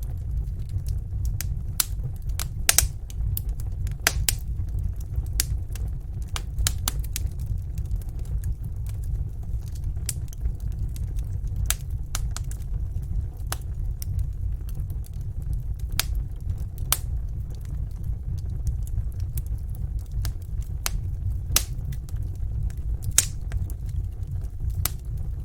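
Wood fire in a fireplace crackling and popping at irregular intervals over a steady low rumble.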